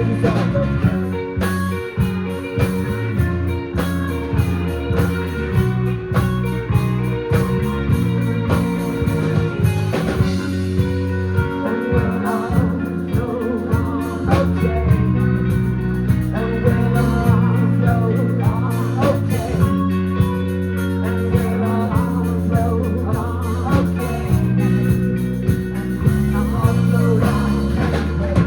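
Live rock-blues band playing a song: electric guitars over bass and a drum kit keeping a steady beat.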